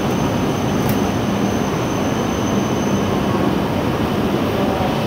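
E7 series Shinkansen train rolling slowly along the platform: a steady run of wheel and running-gear noise with a low hum. A thin high whine stops about three seconds in, and there is one short click just under a second in.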